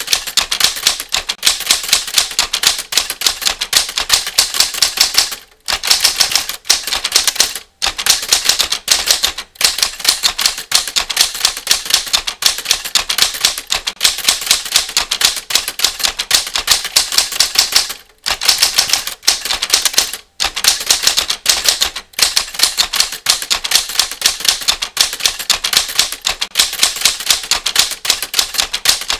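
Typewriter sound effect: rapid manual-typewriter keystrokes in a quick, steady stream. It breaks off briefly a few times, at about five and a half, seven and a half, eighteen and twenty seconds in.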